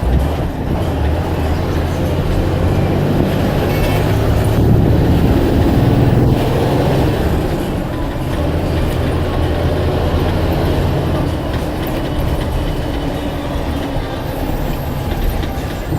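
Blue Bird All American bus running with a steady low engine rumble that builds to its loudest about five to six seconds in, then eases slightly and holds steady.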